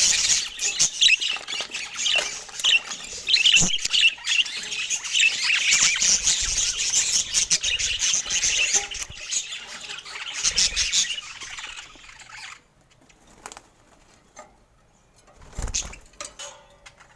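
Several parakeets chattering and chirping rapidly and continuously. The chatter stops about three-quarters of the way through, leaving a few soft knocks and a low thump near the end.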